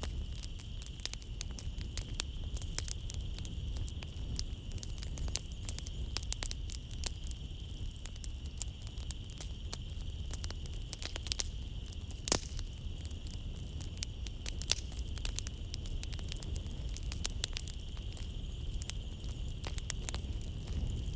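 Wood fire crackling in a fireplace: a steady low rumble of flames under many sharp pops and snaps, one louder pop about twelve seconds in. A steady high chirring of night insects runs beneath it.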